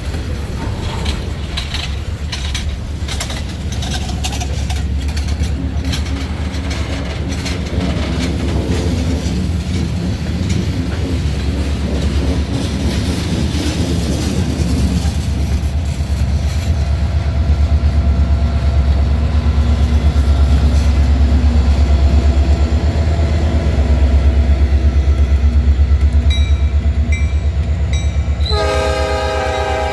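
Diesel freight locomotive running close by, its engine rumble steady and growing louder, with rail traffic noise. Near the end the locomotive's air horn sounds a multi-note chord.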